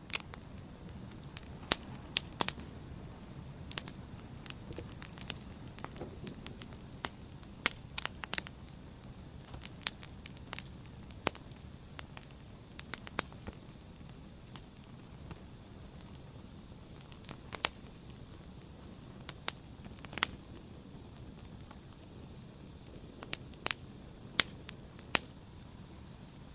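Wood fire burning in a fireplace: irregular sharp pops and snaps of the burning logs over a low, steady rumble of flame.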